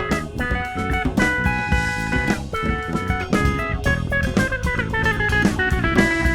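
A live rock band playing an instrumental break: a fast run of plucked guitar notes over a drum kit and bass.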